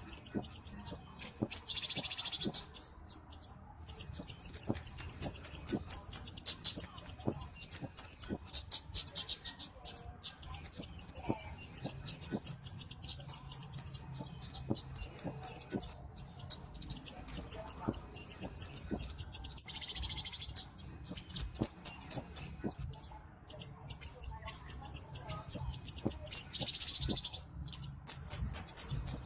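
A flowerpecker (kemade, cabe-cabean) calling: long runs of rapid, very high-pitched ticking chirps with short pauses between runs. A few brief, harsher rasping notes are mixed in.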